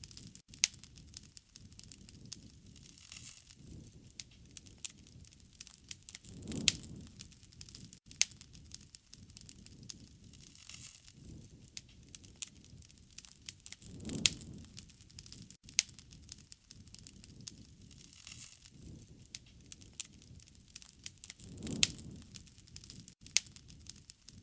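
Wood fire crackling, with frequent sharp pops and snaps. A low rushing swell of the flames comes about every seven and a half seconds.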